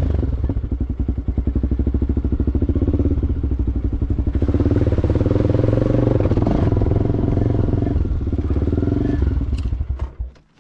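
Musstang ADV enduro motorcycle engine running with a fast, even pulse, working harder and louder from about four seconds in, then cutting off abruptly near the end.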